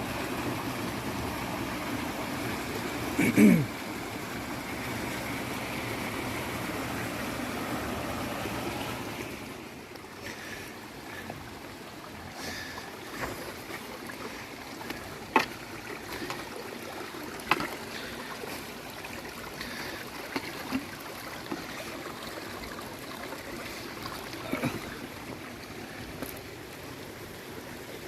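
Creek water rushing, louder for about the first nine seconds and then fainter, with scattered sharp clicks and knocks through the quieter part. A short sound dropping in pitch, the loudest moment, stands out a few seconds in.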